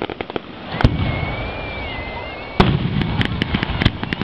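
Fireworks going off: a bang about a second in, then a wavering whistle. Past the halfway point a louder bang is followed by rapid crackling.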